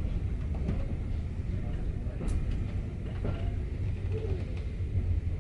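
Heritage railway train running along the line: a steady low rumble with faint clicks, as heard riding in a carriage.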